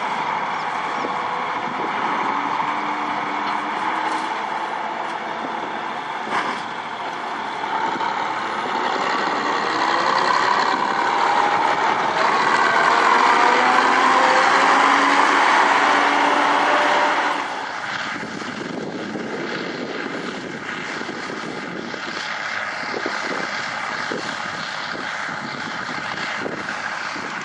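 Heavy vehicle engine running, with its pitch shifting up and down. It grows louder from about ten seconds in, then drops back suddenly about two-thirds of the way through.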